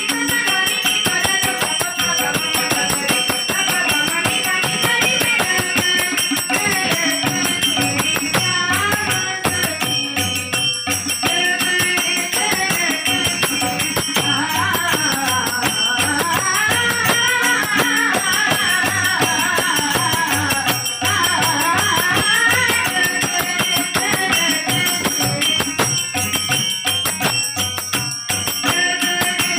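Devotional Hindi bhajan: young girls singing a melody over steady rattling hand percussion.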